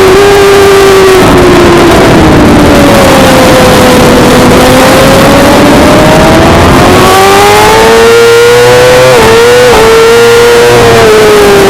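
Suzuki GSX-R600 inline-four engine at high revs over a dense rush of wind noise. Its pitch falls as the bike slows in the first few seconds, then climbs steadily as it accelerates, with a brief break in pitch like a gear change about three quarters of the way through, and eases off again near the end.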